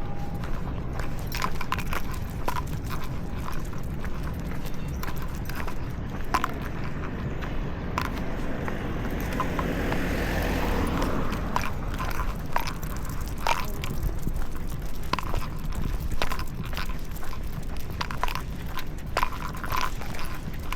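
Walking sounds on a street: scattered sharp clicks and taps over a low rumble of handling noise, with a rushing sound that swells and fades about halfway through.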